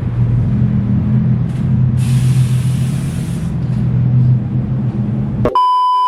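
A car engine's steady low drone with bursts of hiss, the loudest about two seconds in, then a sudden cut to a high electronic beep near the end.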